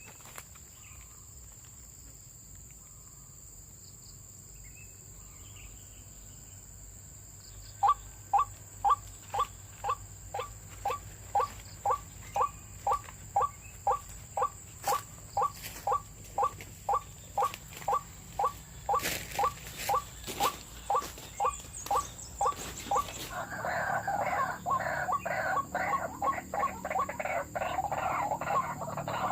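White-breasted waterhen (ruak-ruak) calling. After several seconds of faint background, a regular series of short falling notes begins, about two a second. Near the end it turns into a louder, faster, jumbled bout of calls.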